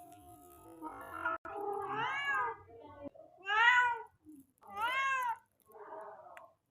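Tomcat in heat calling for a mate: three loud, drawn-out meows that rise and fall in pitch, with softer calls between them.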